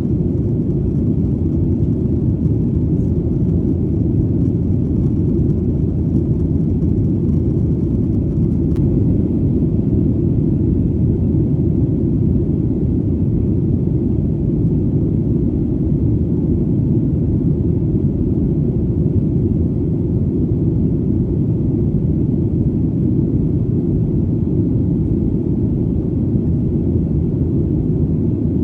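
Steady, even, deep rumble of airplane engine noise in flight, with no change in pitch or level.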